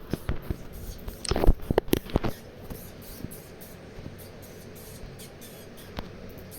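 Small objects being handled and set down: a cluster of light clicks and knocks in the first two and a half seconds, one more click about six seconds in, and faint steady room noise in between.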